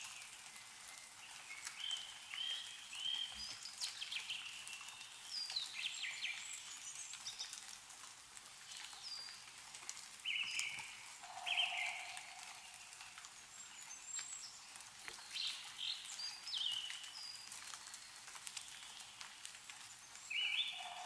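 Several small birds chirping and whistling in short repeated calls, with scattered drips of melting snow falling from trees over a faint outdoor hiss.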